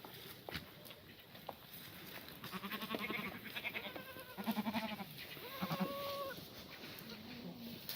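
Black goats bleating: about four wavering calls in the second half, some of them overlapping, after a couple of sharp knocks in the first two seconds.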